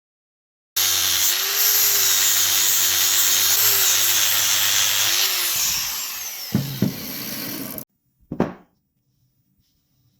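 A handheld power tool running, a loud, noisy whir with a wavering whine in it, that starts suddenly and cuts off suddenly. It eases off with a couple of knocks shortly before it stops, and one short knock follows soon after.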